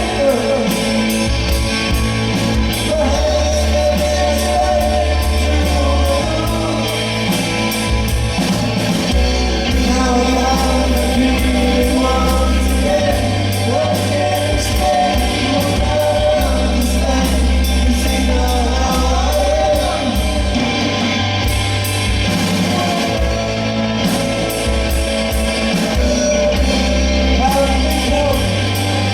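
A band playing live with a singer: a sung melody over a steady drum beat with ticking cymbals and a bass line that changes note every few seconds.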